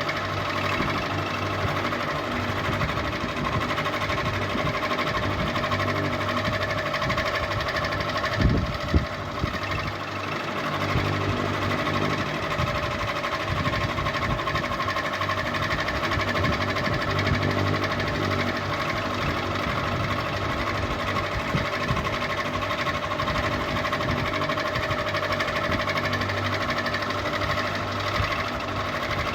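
Ceiling fan running steadily, a motor hum with a whir that does not change. There are two brief knocks about eight and a half seconds in.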